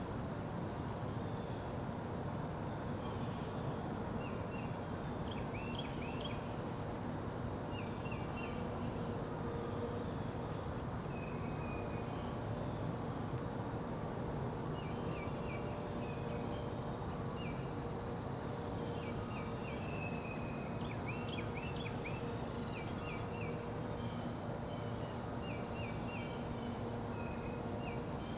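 Outdoor ambience of insects trilling steadily at a high pitch, with short chirps coming in little groups of two or three every second or two, over a steady low rumble.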